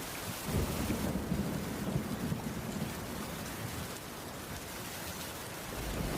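Steady heavy rain with a low rumble of thunder that rises about half a second in and fades away by about four seconds.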